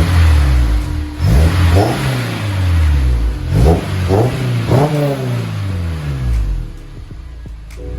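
Honda S2000's four-cylinder engine being revved through its new aftermarket exhaust in several quick blips, then dropping back to idle near the end.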